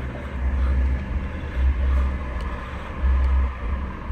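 Low rumble inside the cabin of a VW Jetta TDI, swelling and easing every second or so.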